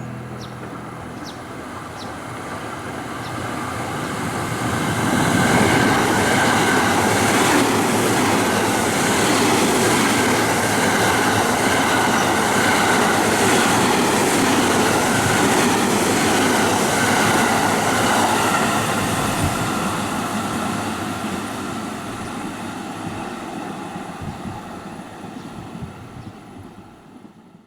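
Train running on the rails: the rumble of wheels and running gear swells over the first few seconds, holds steady, then fades away toward the end.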